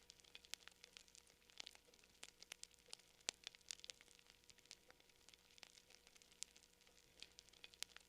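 Campfire crackling: faint, irregular sharp pops and snaps, several a second, with a louder pop about three seconds in.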